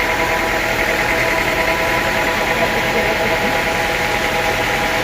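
Sawmill machinery running steadily, a constant-pitch mechanical drone with no change in speed.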